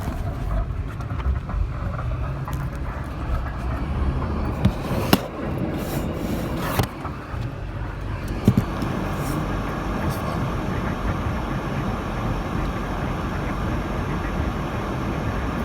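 Cabin noise of a 2018 Subaru Crosstrek driving on snowy roads: a steady rumble of tyres and engine, with a few sharp knocks about halfway through.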